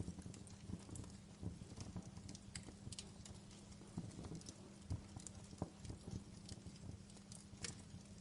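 Wood fire crackling in a fireplace: irregular sharp pops and snaps, several a second, over a faint steady hum.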